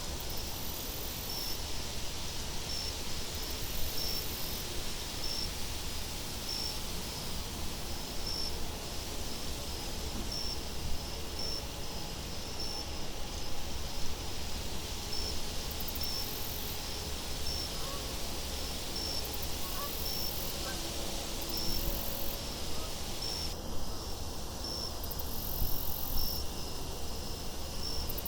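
Crickets chirping in a steady, regular rhythm over a constant rushing wind.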